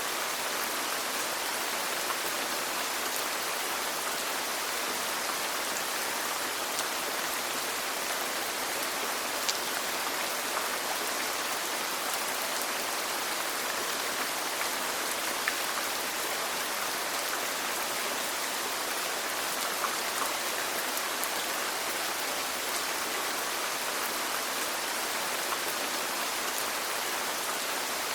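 Steady rain falling, a dense even hiss with occasional individual drops ticking out of it.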